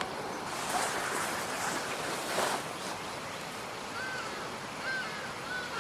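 Steady rain hiss, swelling in the first half, with a few short high chirping calls near the end.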